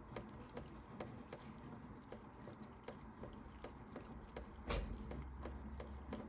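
Toy Bosch Logixx 8 washing machine running a wash programme: a steady low motor hum with regular ticks about two to three a second, and one louder knock about three-quarters of the way through.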